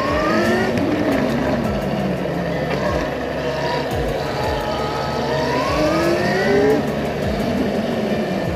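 Electric bike motor whining and rising in pitch twice as it speeds up, over steady wind and rolling noise.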